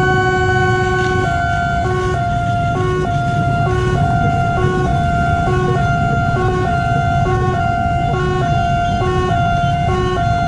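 Railway level-crossing warning alarm sounding, an electronic signal that steps back and forth between two pitches over a steady high tone, with a low rumble underneath. The alarm warns of an approaching train.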